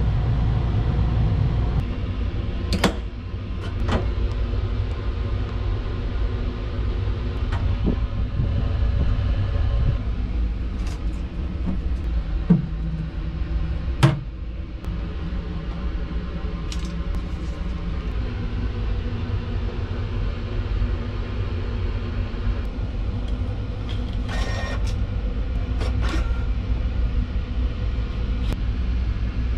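Steady low rumble of the Sunrise Seto sleeper train running, heard from inside the car, with a few sharp clicks and knocks from the metal washroom fittings being handled.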